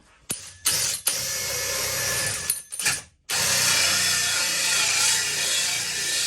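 Power drill with a hole saw cutting a round hole in wood for a puck light, a steady grinding whir that stops abruptly about three seconds in and starts again at once.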